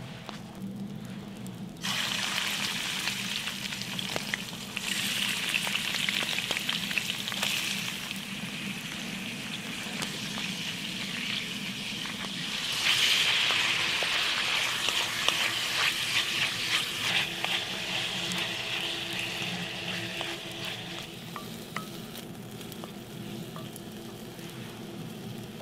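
Food frying in hot lard in a pan. The sizzle starts suddenly about two seconds in as the food goes into the pan, swells again twice, and eases off near the end.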